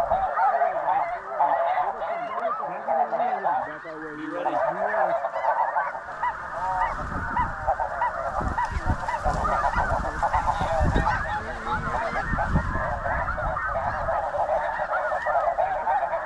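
A huge flock of snow geese calling overhead, a dense, unbroken chorus of many overlapping honks. A low rumble joins in about six seconds in.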